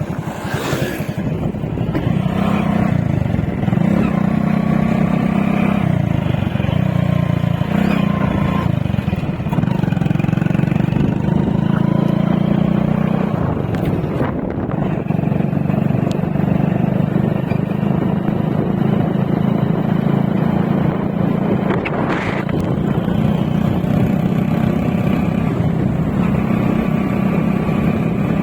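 Motorcycle engine running steadily while riding, its pitch shifting up and down in steps every few seconds with throttle and gear changes.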